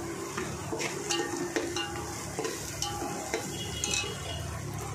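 Chopped green capsicum going into hot oil and fried garlic in a steel pot, sizzling as it is stirred, with short clinks and scrapes against the pot.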